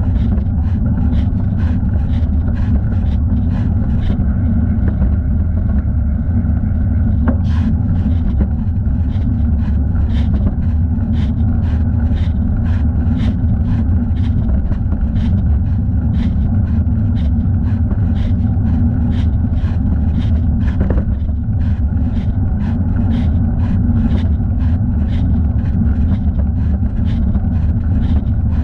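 Riding noise of a bicycle picked up by a thigh-mounted camera: a steady low rumble, with a light tick about twice a second throughout.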